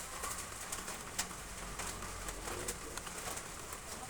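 Heavy rain falling on roof tiles: a steady hiss with many sharp, irregular taps of drops striking the tiles.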